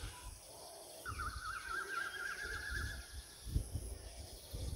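A bird's fast warbling trill, held for about two seconds starting about a second in, faint against a low rumble underneath.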